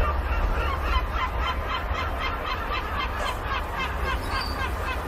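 A bird calling in a rapid, even series of short notes, about five a second, over a steady low rumble.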